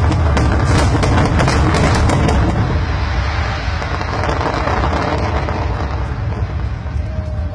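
Fireworks display: dense crackling bursts over a heavy low rumble, the crackling thinning out after about three seconds into a steadier rumble.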